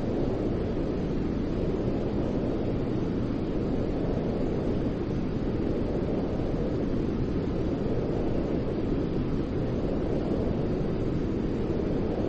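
Steady white-noise sleep sound: an even, deep rushing noise weighted toward the low end, with slight slow swells in its upper edge and no breaks.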